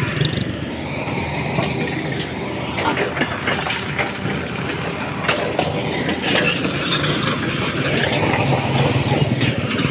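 Excavator at work: its diesel engine running steadily under a shifting high whine, with scattered metallic clanks and knocks, the engine getting louder near the end.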